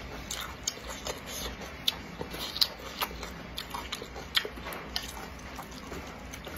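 Close-miked chewing of wide noodles in chili oil, with many short, sharp mouth clicks and smacks scattered irregularly.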